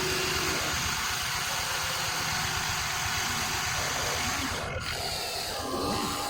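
Electric motors and gearboxes of radio-controlled model excavators running, a continuous mechanical whirring with a rapid ratcheting buzz.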